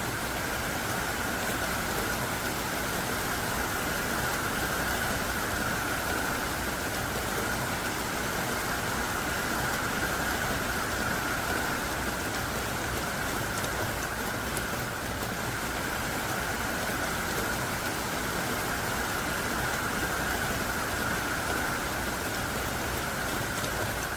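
Heavy, pouring rain falling steadily on surfaces, a dense even hiss with no letup.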